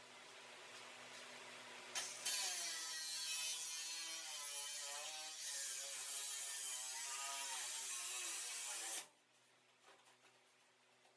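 Drill boring out a spot weld in the steel sheet metal of a truck door: it starts about two seconds in, cuts for about seven seconds with a wavering whine as the bit bites into the metal, and stops suddenly.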